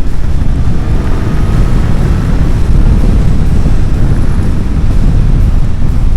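Suzuki GSX-S1000GT's inline-four engine running under way, its faint note rising a little in the first couple of seconds, under heavy low wind rumble on the microphone.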